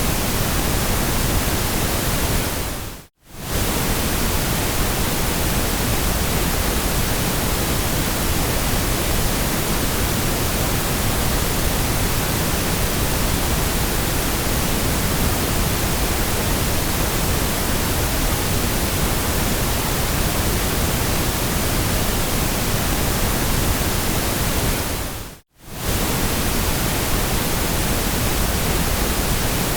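Steady white noise, an even hiss with a deeper low end, that fades briefly to silence and straight back twice, about three seconds in and again near the end.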